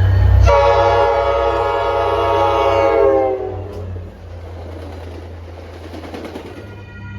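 Train horn sounding one long chord blast over the deep, steady rumble of the passing train; the blast sags slightly in pitch as it cuts off about three and a half seconds in. The train rumbles on, and a horn note starts up again near the end.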